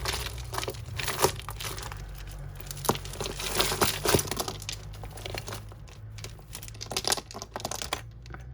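Plastic bag crinkling and rustling as hands handle costume jewellery, with many small sharp clicks of beads and chain.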